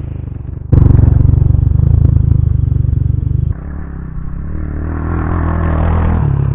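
X-Pro Templar 250cc dirt bike engine running while being ridden. It is suddenly much louder from just under a second in, drops back sharply about halfway through, then builds again near the end.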